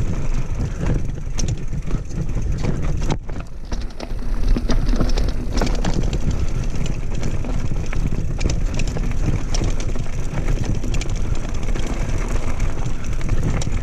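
Mountain bike ridden over a rocky trail: the bike clatters and knocks over stones, with a steady low wind rumble on the microphone.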